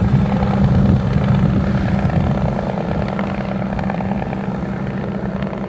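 A-Star helicopter's single turbine and rotor running steadily in flight, easing off slightly toward the end.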